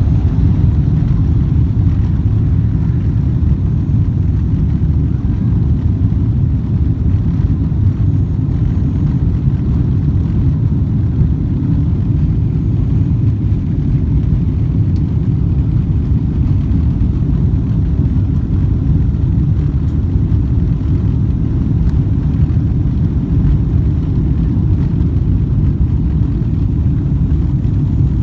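Boeing 777-200ER cabin noise heard from a window seat: a loud, steady low rumble of the engines and airflow.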